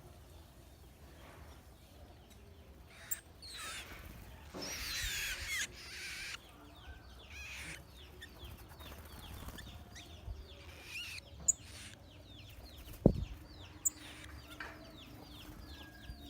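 Bird calls: a string of squawking, sweeping calls, loudest about five seconds in, followed by a quick run of short chirps. A few sharp knocks break in, the loudest about thirteen seconds in.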